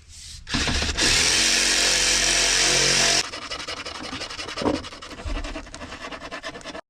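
A handheld power tool runs at one steady speed for about two seconds and then stops abruptly. Quieter rapid clicking and handling noises follow, with a single knock near the end.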